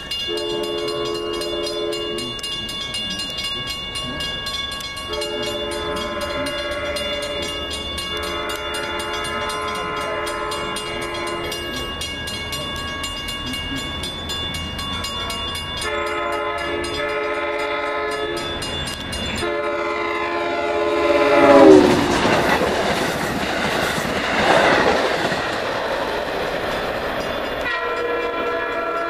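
Diesel train's multi-chime air horn sounding in several long blasts as the train approaches. The train then passes close by with a loud rush, the horn's pitch dropping as it goes by, and the horn sounds again near the end.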